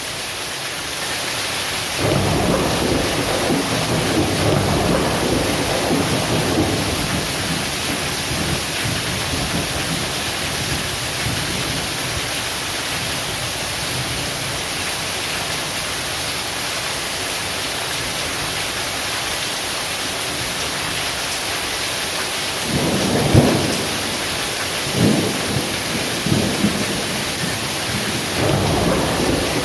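Heavy rain pouring steadily, with thunder rumbling from about two seconds in and sharper, louder thunder claps near the end.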